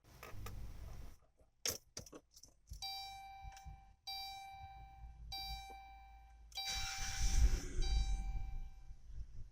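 Keys jangling and clicking, then the Grand Caravan's dashboard warning chime sounding in repeated pulses of about a second each, five times. Near the end a louder rumbling, rushing noise comes in under the chime.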